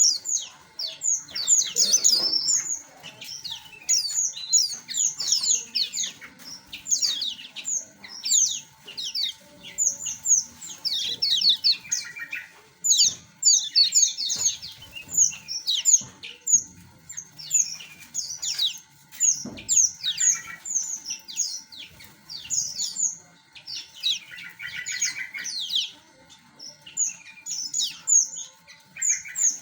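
A flock of small aviary birds chirping: many short, high chirps overlapping without a break, with a few brief rapid trills now and then.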